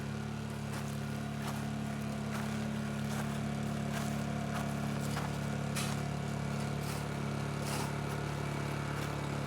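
An engine or motor running steadily at one speed, with a few scattered light knocks.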